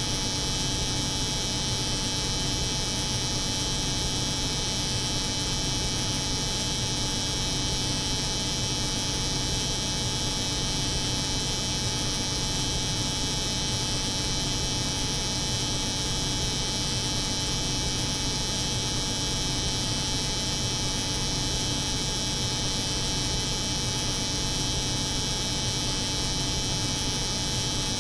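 Layered steady drone of a cold room's refrigeration hum and an electric hair clipper running, unchanging throughout.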